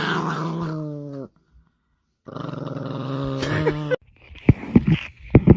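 A dog growling in two separate stretches of a second or two each, followed by several short, sharp sounds near the end.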